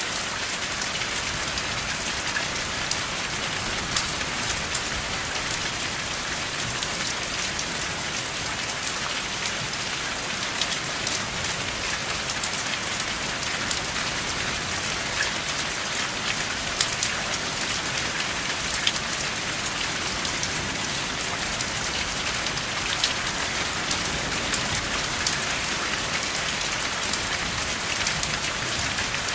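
Steady rain without thunder, an even hiss with many individual drops ticking sharply through it.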